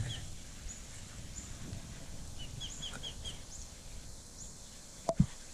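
A bird chirping in short runs of three or four quick notes, with higher, fainter chirps in between, over a steady outdoor hiss. Two sharp knocks about five seconds in.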